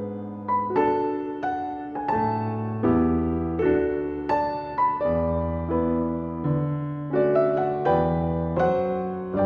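Background piano music: a slow melody of single struck notes, each ringing and fading, over held low bass notes.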